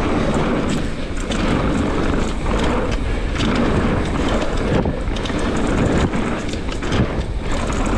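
Mountain bike riding a dirt trail: wind buffeting the microphone over a steady rumble of tyres on dirt, with frequent sharp clicks and rattles from the bike.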